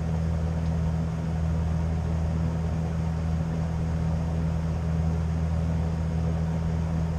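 A steady low mechanical hum that holds one pitch and level throughout, with no knocks or other distinct sounds.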